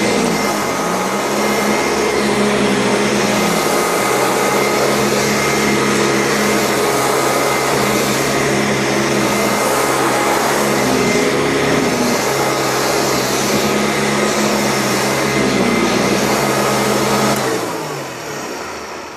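Euroclean upright vacuum cleaner running steadily as it is pushed over carpet, its motor pitch dipping and recovering now and then with the load. Near the end it is switched off and the motor winds down.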